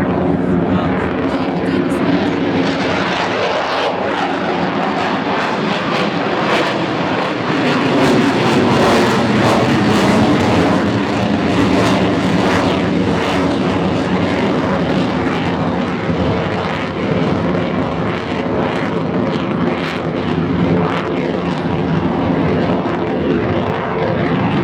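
Loud, continuous aircraft engine noise from a fixed-wing aircraft in flight, a steady drone that swells slightly about a third of the way in.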